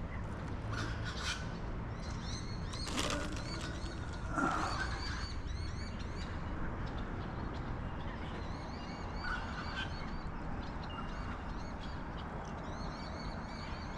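Birds chirping: many short, high, repeated chirps, with a few louder calls about four and nine seconds in, over steady background noise.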